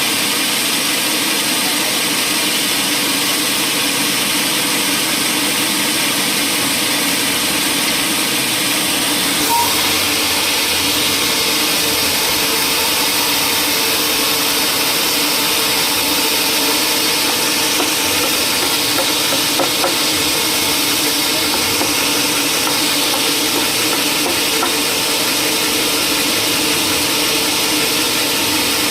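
A woodworking machine running steadily, with a constant hum and a strong even hiss; one brief knock about nine and a half seconds in.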